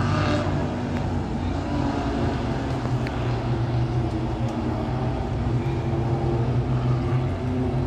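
Race car engines idling, a steady low hum with no revving.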